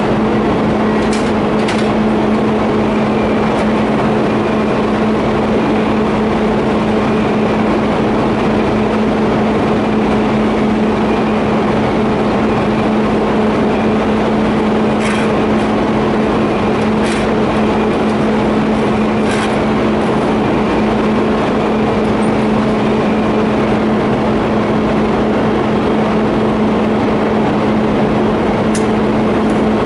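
TIG welding on a steel pipe flange and elbow: a steady hum with a hissing noise underneath, and a few faint clicks here and there.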